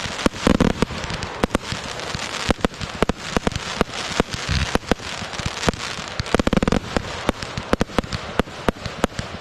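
Fireworks going off in a dense run of sharp crackling pops, with heavier low booms about half a second in, around four and a half seconds, and near six and a half seconds.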